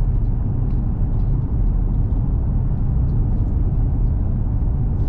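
Steady road and engine noise heard from inside a small truck's cabin while driving, a continuous low rumble without change.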